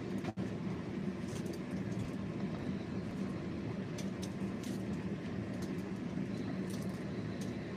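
Steady low hum and rumble, with a few faint ticks and a brief dropout about a third of a second in.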